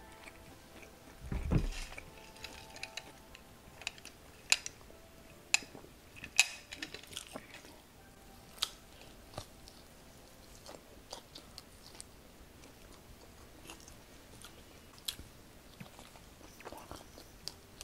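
Close-miked chewing of a spicy Korean fried chicken drumstick: scattered wet clicks and crackles of the meat and coating between the teeth. About a second and a half in comes a short low thump, the loudest sound.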